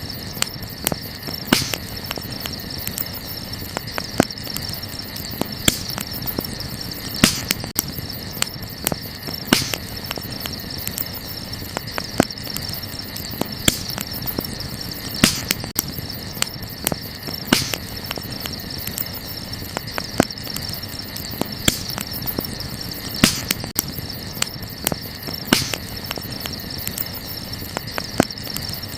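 Wood campfire crackling steadily, with many small clicks and a louder pop about every two seconds, over a steady high chirring of night insects.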